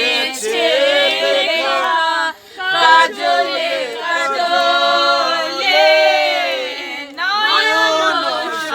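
A group of people singing together without instruments, several voices holding drawn-out notes, with short breaks about two and a half seconds in and again about seven seconds in.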